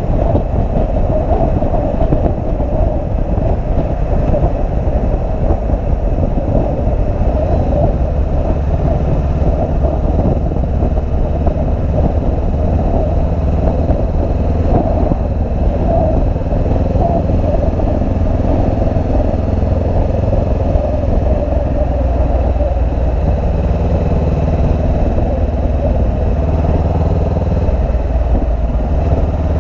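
Motorcycle being ridden: a steady engine note under a dense rushing noise, holding even throughout with no sharp revving or stops.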